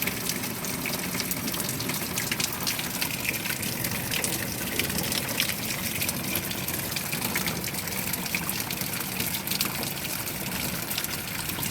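Heavy rain falling steadily: an even rush with many sharp drop hits throughout.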